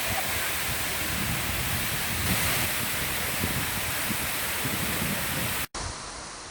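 Waterfall pouring: a steady, dense rush of falling water. Near the end it cuts off abruptly and a quieter rushing sound follows.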